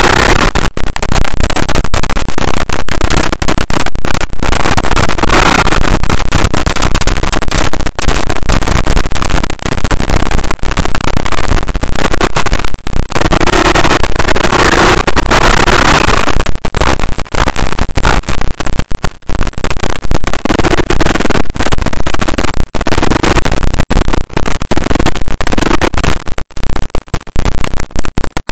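KTM enduro motorcycle engine running hard under load on a steep dirt hill climb, heard through a bike-mounted camera microphone that is overloaded and distorted, with many brief dropouts.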